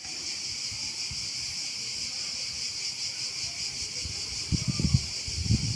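A steady, high-pitched chorus of buzzing insects. Irregular low rumbles join about four and a half seconds in.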